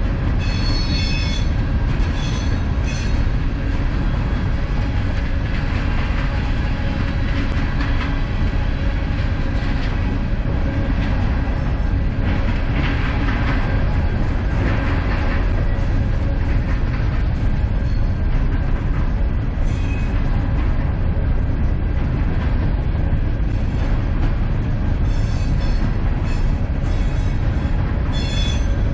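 Loaded coal train of open hopper cars rolling past on steel rails: a steady, loud rumble of wheels on track. Short high-pitched wheel squeals rise over it near the start, around two-thirds of the way through, and again toward the end.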